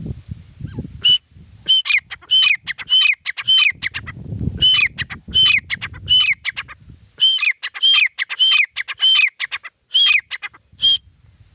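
A titar (francolin) calling: a rapid series of sharp, high calls, each ending in a falling note, about two a second with a couple of short breaks. A low rustling noise sits underneath in the first half.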